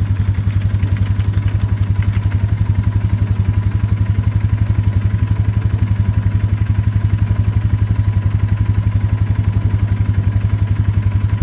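Small vehicle engine running steadily at idle, an even rapid pulsing with no change in speed.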